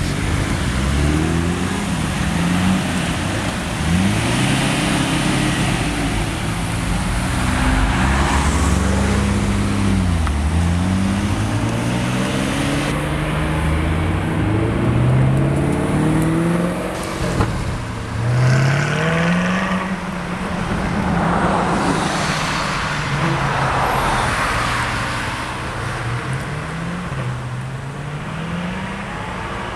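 Nissan Skyline GT-R R34's twin-turbo inline-six pulling away and accelerating through the gears. The engine note rises, then drops at each shift, over and over, and gets quieter toward the end.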